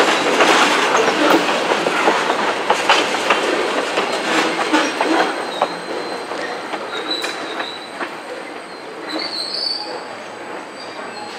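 Freight train of tank cars rolling away, its wheels clicking over the rail joints. The sound fades steadily as the last car recedes. Thin, high wheel squeal comes in over the second half.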